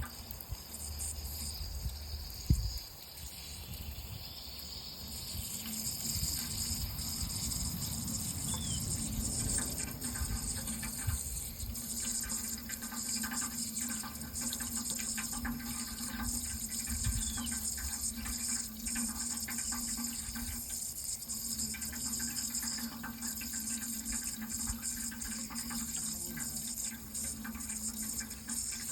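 Running water pouring steadily, a continuous hiss that grows fuller about five seconds in. A single sharp thump sounds about two and a half seconds in.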